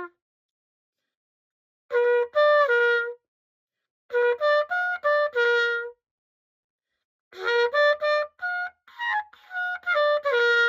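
Cecilio pocket cornet played in three short phrases of separate notes with silent pauses between them: a high-note test of the freshly repaired and cleaned horn.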